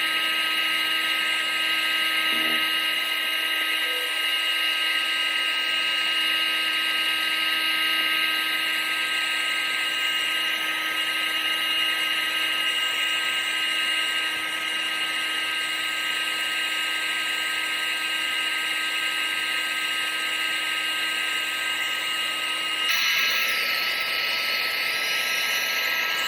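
Vacuum cleaner running continuously, a steady high motor whine over rushing air. About 23 seconds in the tone shifts slightly and carries on just as steadily.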